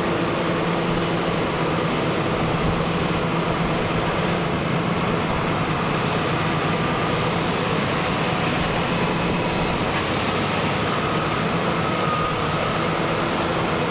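Caterpillar 120H motor grader's diesel engine running steadily, a constant low drone with a faint whine that comes in about ten seconds in.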